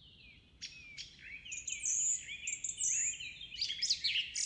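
Birds chirping and singing: many short, high chirps and whistles overlapping, a number of them sliding down in pitch, starting about half a second in.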